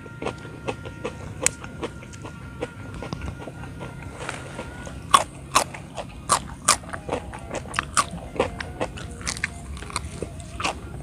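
Close-up crunching and chewing of a raw young papaya shoot, its crisp stalk and leaves, in irregular crunches that come thickest and loudest about halfway through.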